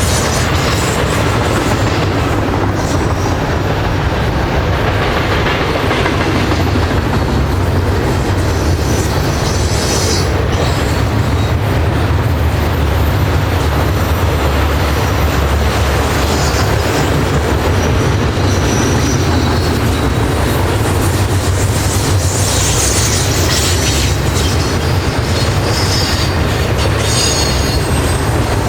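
Freight train rolling past on the main line: a steady rumble of steel wheels on rail, with brief high wheel squeals now and then.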